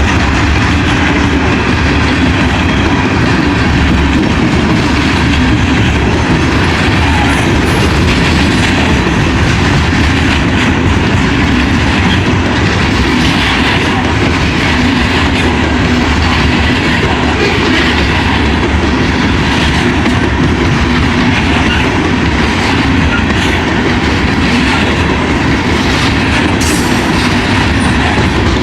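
Coal train's freight cars rolling slowly past, a steady heavy rumble with wheels clacking over the rail joints.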